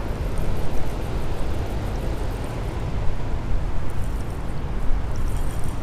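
Steady low rushing noise of fast river current and wind on the microphone, with faint quick ticks of a spinning reel being cranked.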